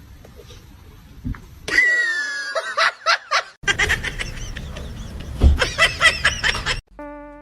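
People laughing, in short repeated bursts that get stronger partway through. Near the end the laughter stops and a steady held tone begins.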